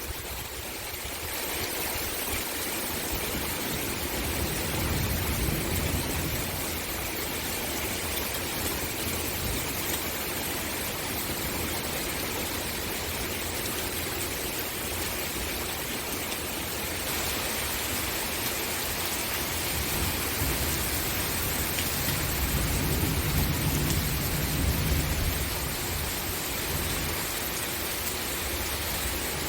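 Steady rain falling, an even hiss. A low rumble swells up about five seconds in and again for a few seconds later on.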